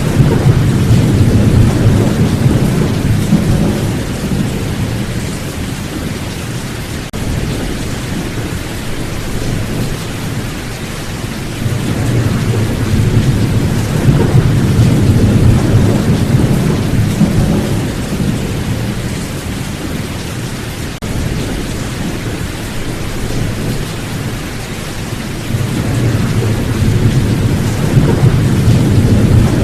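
Steady heavy rain with rolling thunder; the low rumble swells three times, near the start, in the middle and again near the end.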